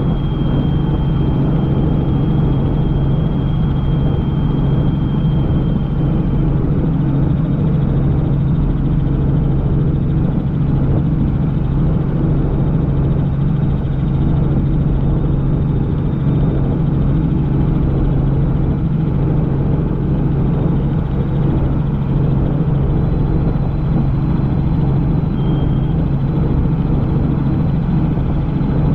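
Helicopter in flight: a steady rotor and engine drone with a strong low hum that holds level throughout, and a faint high whine that fades out about six seconds in.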